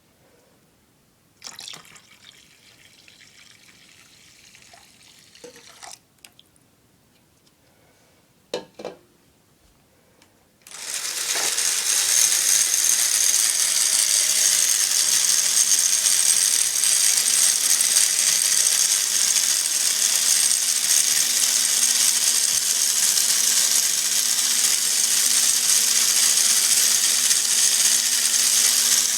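A few light clicks and clatters, then about ten seconds in a steady, loud rush of running water starts and keeps going, like a tap running; a faint low hum joins in later.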